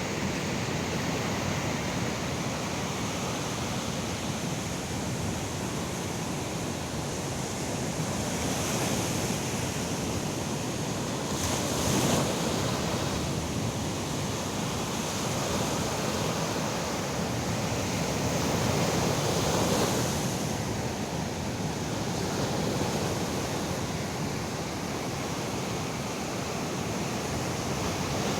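Ocean surf washing in on a beach: a steady rush of breaking waves that swells as bigger waves break, most strongly about twelve seconds in and again near twenty seconds.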